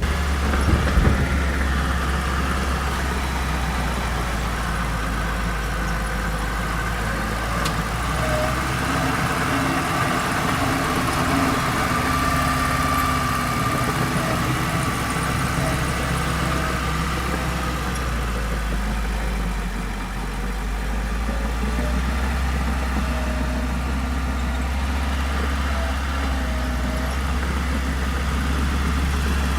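Heavy construction machinery engine running steadily in a low drone, easing off briefly about two-thirds of the way through.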